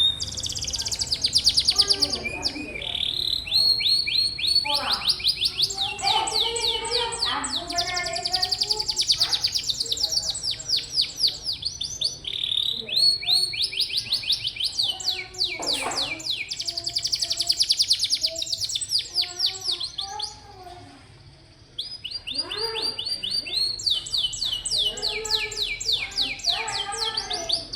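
Domestic canary singing a long, continuous song of fast rolled trills and rapidly repeated high notes, broken by one short pause about three-quarters of the way through.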